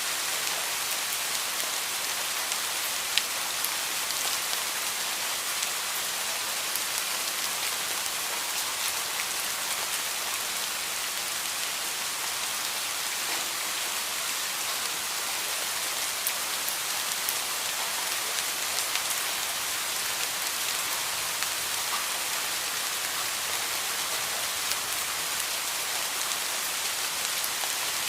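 Heavy rain falling steadily: an even hiss, with scattered sharper drop ticks, one more distinct about three seconds in.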